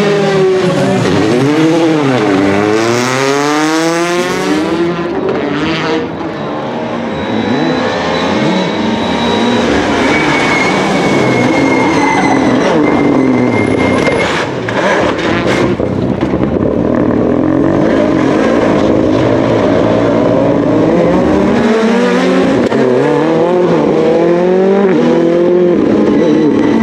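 Rally car engines revving hard, pitch climbing and falling again and again through gear changes as the cars pass, with a few sharp cracks a little past the middle.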